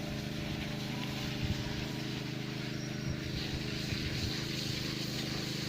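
Steady low machine hum, like a motor running at constant speed, with a few faint low thumps.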